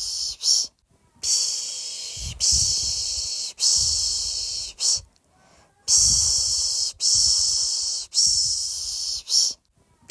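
A person shushing a baby to sleep, 'shhh' over and over. The hushes come in groups: three long ones of about a second each, then a short one, then a brief pause.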